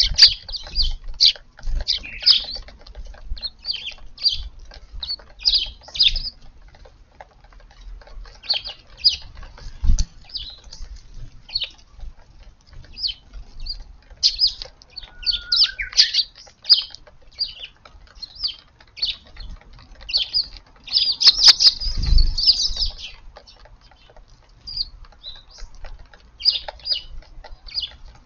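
Eurasian tree sparrows chirping, many short chirps in quick, uneven succession, with a denser flurry of chirps about three-quarters of the way through. Low thumps come about ten seconds in and again during the flurry.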